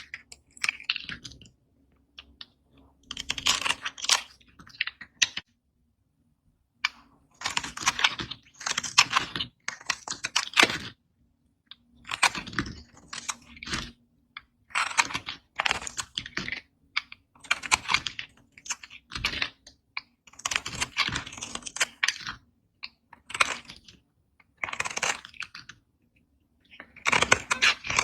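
A blade cutting into dry bar soap, a crisp crackling crunch in stroke after stroke. There are about a dozen cuts, each a second or two long, with short quiet gaps between them.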